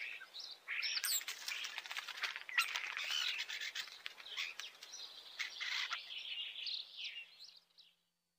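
Songbirds chirping and twittering in a dense, varied mix of whistles and short clicks, ending abruptly near the end.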